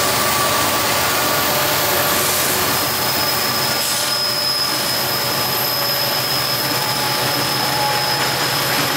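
Union Pacific freight train passing: diesel locomotives running under power, then freight cars rolling by with steady wheel-on-rail noise. A thin high-pitched whine starts about three seconds in and holds.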